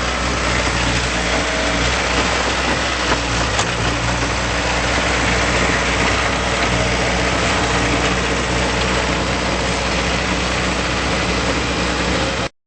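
2008 Bobcat T190 tracked skid steer's diesel engine idling steadily, cutting off suddenly near the end.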